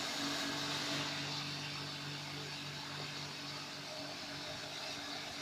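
Nestpro HM6000 humidifier running just after being switched on: a steady rushing noise from its fan and mist, with a low steady hum underneath, a little louder in the first second before it settles.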